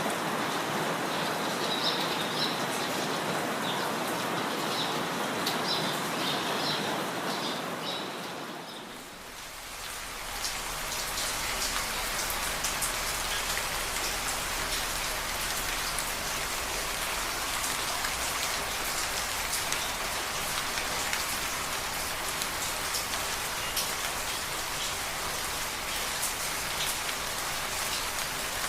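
Steady rushing water with small birds chirping over it, fading down about nine seconds in. It gives way to steady rain falling on a surface, with many fine drop ticks.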